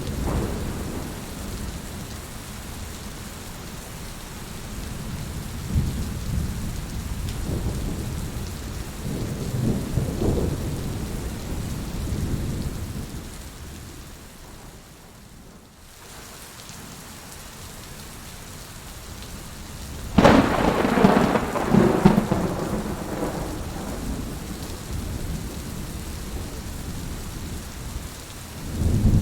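Heavy rain falling steadily with thunder. Low rumbles roll through the first half, the rain briefly grows quieter about halfway, then a sudden loud thunderclap about 20 seconds in rumbles on for a few seconds.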